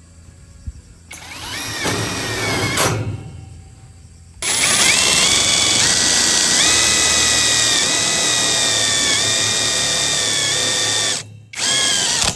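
A power tool's motor whines up briefly and stops, then runs steadily for about seven seconds with small steps in pitch. It stops briefly and starts again near the end.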